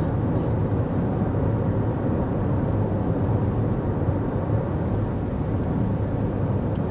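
Steady road noise of a 2024 Toyota Corolla Cross cruising at highway speed: an even rush of tyre and wind noise, heaviest in the low end, with no change in pitch or level.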